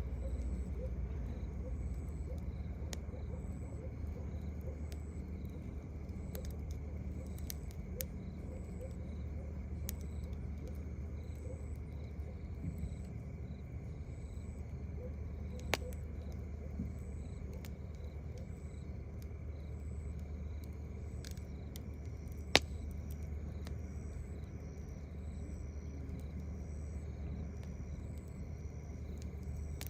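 Crickets chirping in a steady, regular rhythm, over a constant low rumble. Twice, about half way and again a little later, the campfire gives a sharp pop.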